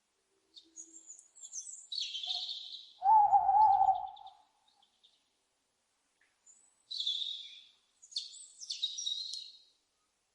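Owls calling: several short, harsh, high-pitched screeches and one louder, wavering, lower call about three seconds in.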